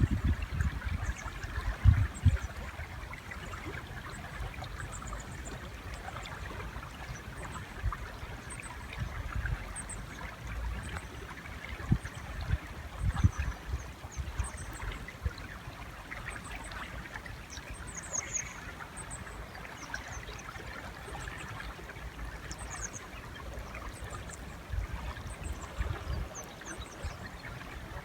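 A river's flowing water runs steadily, with faint, brief, high bird chirps scattered throughout and irregular low thuds, the strongest about two seconds in and again around thirteen seconds.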